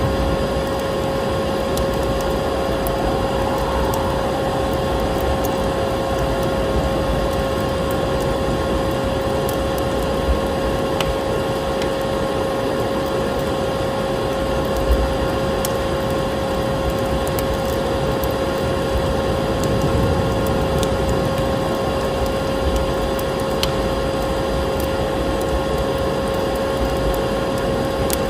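Vacuum cleaner running steadily with a constant whine, mixed with a wood fire crackling in a fireplace, its pops and clicks scattered through the drone.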